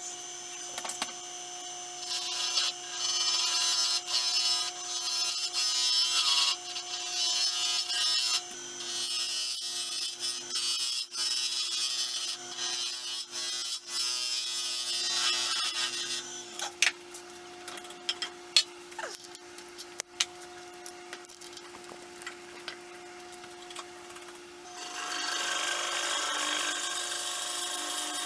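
Wood lathe running with a steady hum while a turning tool cuts a tenon into a spinning blank of resin and stabilized sticks, in repeated bursts of cutting noise. The cutting stops for several seconds after the middle, leaving the lathe's hum, and starts again near the end.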